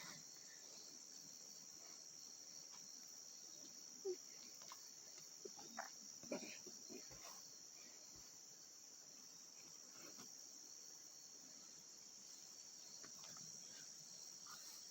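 Faint, steady high-pitched chirring of insects such as crickets, with a few brief faint noises about four and six seconds in.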